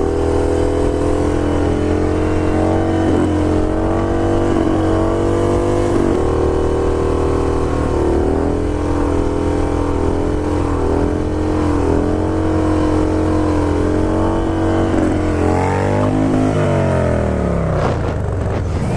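Harley-Davidson Dyna Low Rider's Twin Cam 88 V-twin engine running steadily under way, its pitch dipping briefly a few times with the throttle. Near the end the revs fall steadily as the bike slows.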